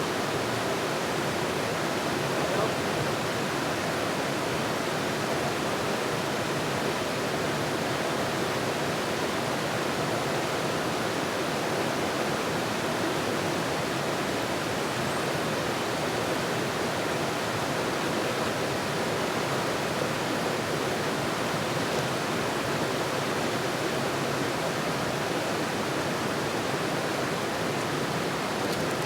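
Steady rushing of flowing water, an even unbroken wash with no change in level.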